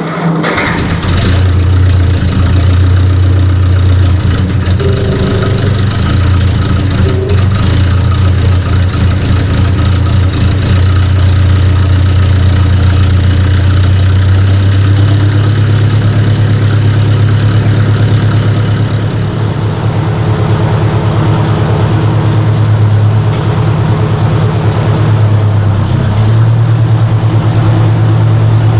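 1953 Ford Jubilee tractor's four-cylinder gasoline engine starting cold with the choke out: it fires almost at once and then runs steadily, the note shifting slightly partway through.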